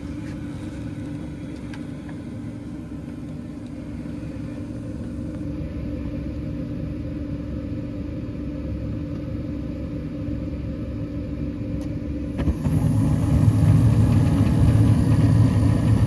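Gas furnace running in heat mode after a burner cleaning: a steady rumble of burners and fans with a low hum. About twelve seconds in it gets suddenly louder and stays that way.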